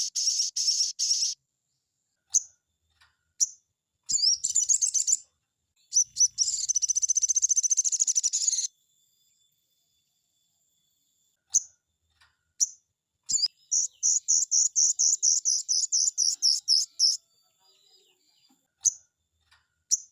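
Sogon bird singing: high-pitched bursts of fast, rapidly repeated notes and rattling trills, broken by short single chirps and brief pauses.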